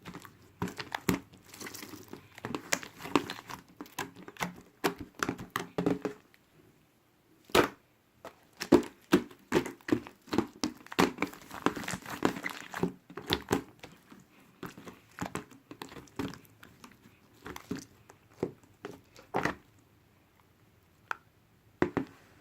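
Crinkling and rustling handling noises made up of many quick clicks and crackles in runs, with a short pause about a third of the way in, growing sparser toward the end.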